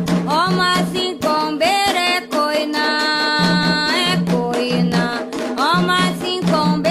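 Candomblé devotional song for the orixás: voices singing with upward sliding notes over hand drums.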